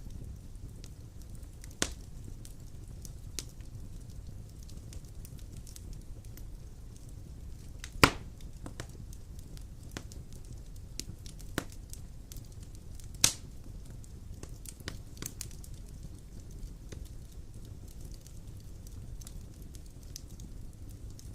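Wood fire burning in a stone fireplace: a steady low rumble with scattered sharp crackles and pops, the loudest about 2, 8 and 13 seconds in.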